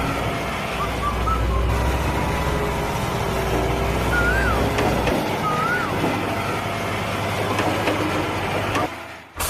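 A tractor motor running steadily. Its low hum drops away about five seconds in, and a few short squeaky chirps sound over it.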